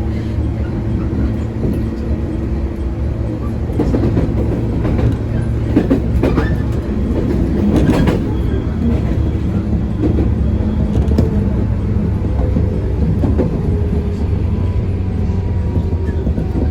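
JNR-era electric multiple-unit train running on the line, a steady rumble and hum with several clacks of the wheels over rail joints around the middle.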